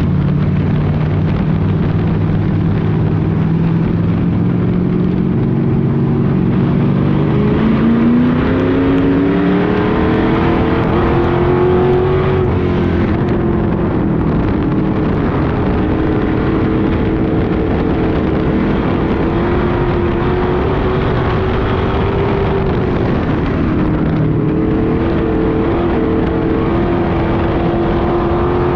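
Street stock race car engines running under racing conditions. The engine note sits low for several seconds, climbs steadily as the cars accelerate about a quarter of the way in, holds high, then dips and climbs again near the end.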